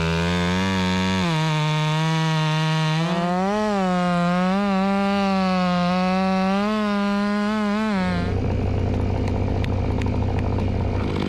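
Chainsaw engine running at high revs, its speed wavering as if under load. About eight seconds in, the engine's pitch gives way to a rougher, noisier rattle with clicks, and right at the end the engine revs sharply back up.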